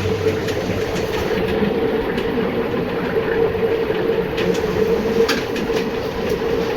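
Food-processing factory machinery running: a steady hum with a continuous rattle and scattered clicks.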